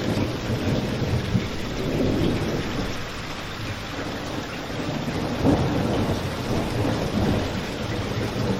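Steady rain ambience with a continuous low rumble underneath, and a brief louder swell about five and a half seconds in.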